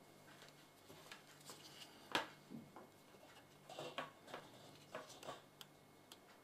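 Scattered light clicks and knocks of small objects being handled, with one louder knock about two seconds in and a run of clicks in the middle, over a faint steady hum.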